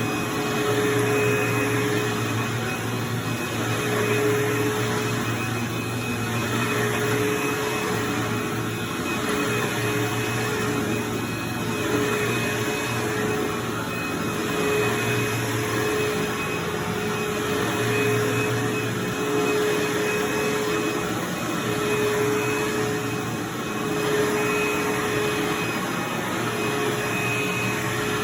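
Vacuum cleaner running steadily on carpet, a constant whine with a lower hum that fades and returns every few seconds.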